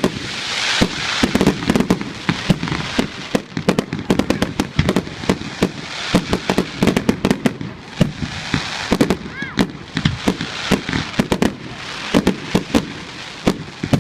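Fireworks display of aerial shells and cakes: a dense, continuous run of loud bangs and crackling pops, with a short whistling sound about nine and a half seconds in.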